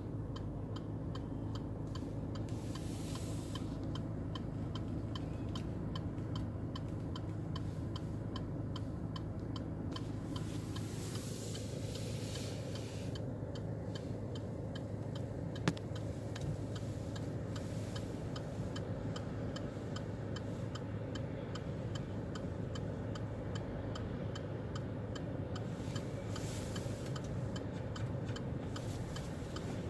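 Fast, even mechanical ticking over a steady low hum, with one sharper click about halfway through.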